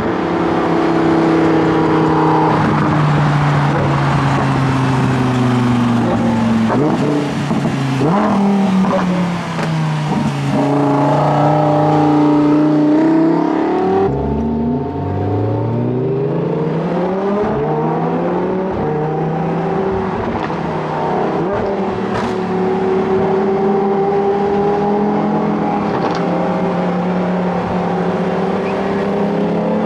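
Lamborghini Huracán's V10 engine, breathing through an aftermarket Vivid Racing exhaust, running under way. Its note falls over the first several seconds, dips about halfway through, then climbs steeply as the car accelerates and settles into a steady cruise.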